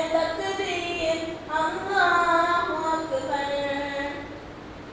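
A single young voice sings a naat unaccompanied, in long ornamented notes that bend and glide in pitch. The voice trails off near the end.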